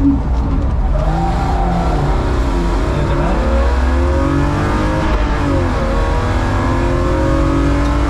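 BMW E36 325i's 2.5-litre straight-six engine, heard from inside the stripped, caged cabin, driven hard on track. The revs fall off and dip in the first few seconds, then climb steadily under acceleration from about three seconds in.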